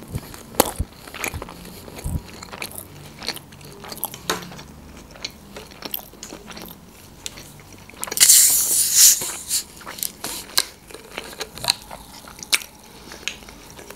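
Close-up chewing of a fried sushi roll: wet mouth clicks and small crunches come steadily. About eight seconds in, a loud, high hiss lasts about a second.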